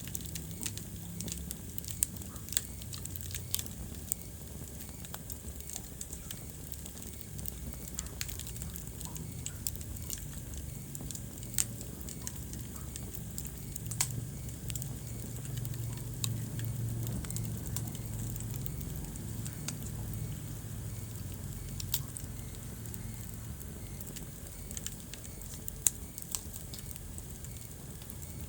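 Wood fire crackling in a fireplace: frequent small crackles and a few sharper pops over a low rumble of the flames, which swells a little in the middle.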